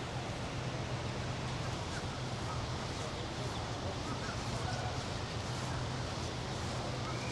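Steady outdoor ambience: an even wash of background noise over a constant low hum, with a few faint brief sounds on top.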